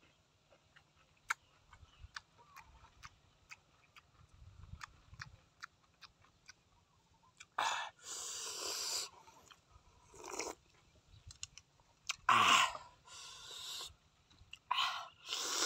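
Close-up chewing of grilled squid with many small wet mouth clicks, then a few louder noisy bursts of about a second each as the squid is pulled apart and eaten.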